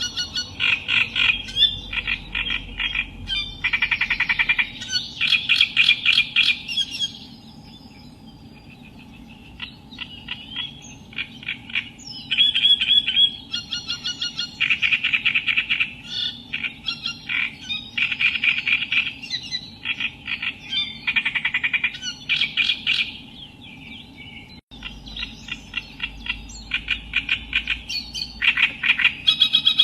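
Reed warbler singing: phrases of fast, repeated notes, several seconds each, broken by short pauses, over a faint steady background hum.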